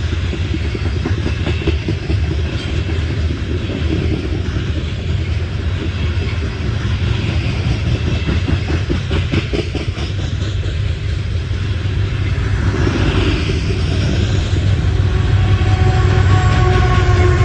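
CSX coal train's cars rolling past, a steady low rumble with the wheels clacking over the rail joints. A few steady high tones come in near the end.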